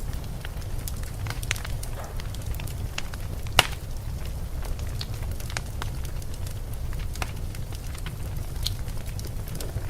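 Wood fire crackling in a fireplace: scattered small pops and snaps, one louder pop about three and a half seconds in, over a steady low rumble.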